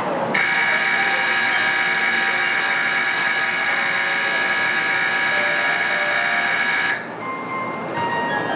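Shinkansen platform departure bell: a continuous electric bell ringing steadily for about six and a half seconds, then cutting off suddenly, the signal that the train is about to leave.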